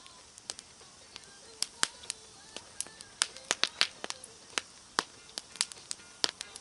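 Wood fire crackling, with many sharp irregular pops and cracks, thickest in the middle.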